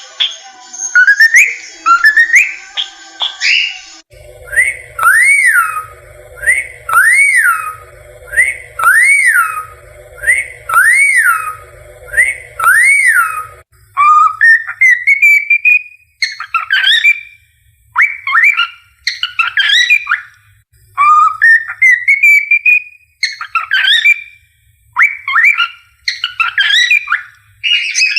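Male cockatiel whistling a learned tune in short sliding phrases. About four seconds in, the same arching whistle repeats five times, about two seconds apart, over a low hum; from about fourteen seconds on come rising, swooping whistled notes in quick phrases.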